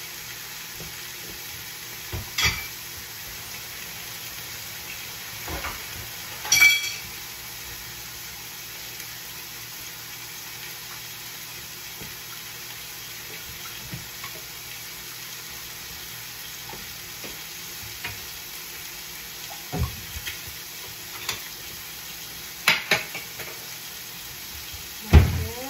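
Pork belly frying without added oil in a stainless Salad Master pan, a steady low sizzle. A handful of clinks and knocks of kitchenware cut through it, one with a short metallic ring, the loudest knock near the end.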